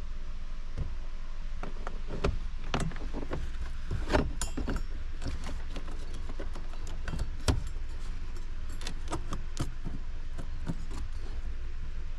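Irregular clicks, taps and knocks of hand tools and metal parts being handled, loudest at about two, four and seven and a half seconds in, over a steady low hum.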